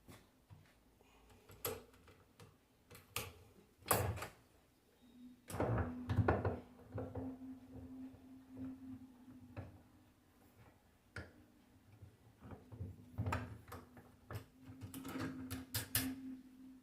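Clicks, knocks and clatter of alternator parts being handled and fitted together by hand, with a steady low hum running for a few seconds at a time twice.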